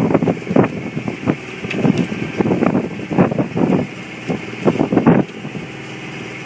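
Wind buffeting the microphone in irregular gusts on board a small sailing boat, easing off about five seconds in.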